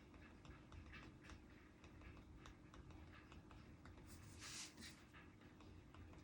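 Faint pen strokes and small taps on paper from writing at a desk, with a brief rustle of paper about four seconds in.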